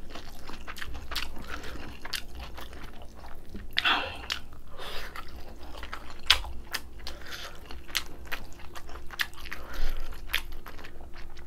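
Close-miked chewing with many short, crisp crunches of kimchi being bitten and eaten.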